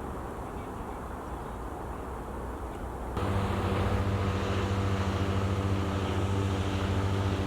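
A low, steady rumble, then about three seconds in a steady engine drone with a low hum and even overtones starts abruptly and runs on.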